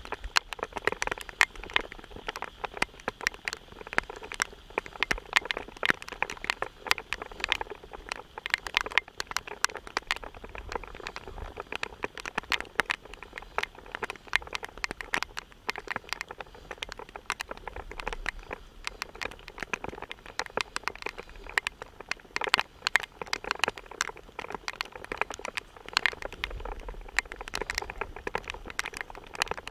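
Rain falling, heard as many sharp, irregular taps of drops striking close by, several a second and steady throughout.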